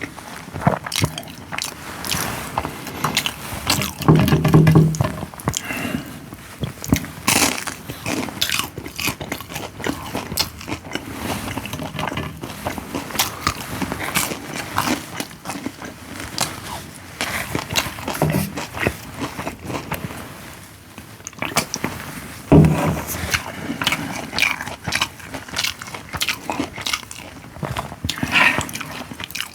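A person chewing and biting food close to the microphone: a dense run of short mouth clicks and smacks, with two louder bursts about four seconds in and again about twenty-two seconds in.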